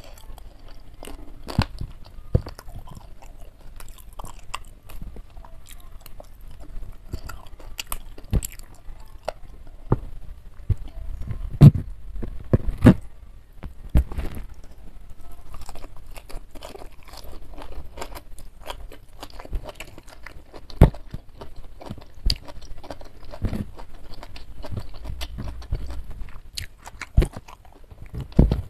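Close-miked chewing of a mouthful of fern shoots and jengkol curry, with irregular sharp crunches and clicks; a few loud crunches come just before halfway and another about two-thirds through.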